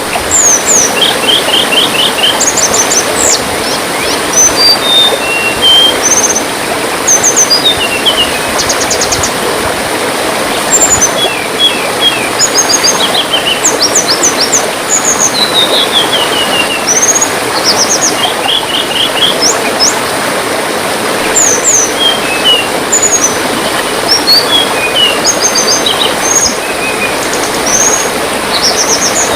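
Tledean birds chirping and trilling in quick, high bursts throughout, over the steady rush of gently running water.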